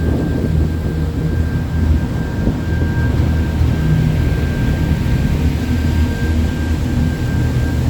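Boat engine running steadily, heard on board: a low rumble with a thin steady whine above it.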